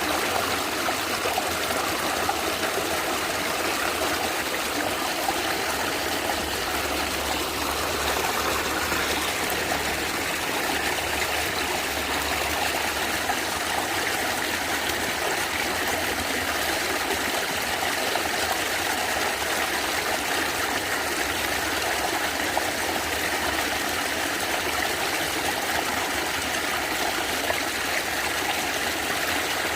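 Stream water gurgling and trickling steadily over rocks.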